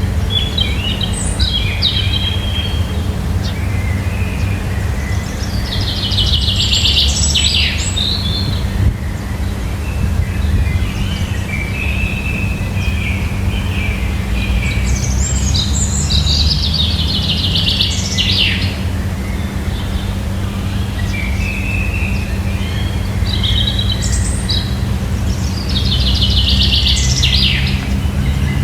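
Wild birds singing, the same complex chirping phrase coming back about every nine seconds, four times, over a steady low rumble.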